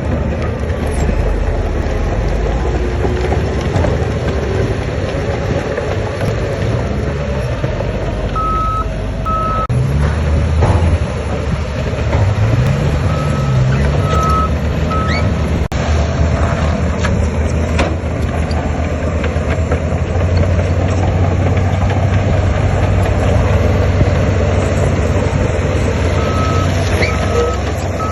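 Heavy diesel construction machinery running steadily, with the engine revving up briefly about a third of the way in. A reversing alarm beeps in short runs of two or three beeps, three times.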